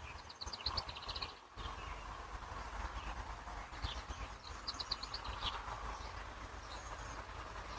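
A small bird singing: a quick run of five or six short high notes near the start, and another about five seconds in, over a steady low rumble.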